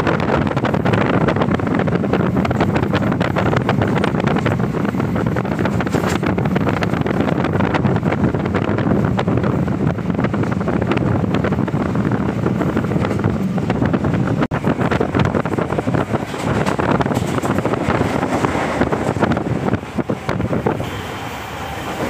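Electric suburban train running at speed over a bridge, a steady loud rumble and rattle of wheels on rails, with wind buffeting the microphone at the open window. The noise eases a little near the end.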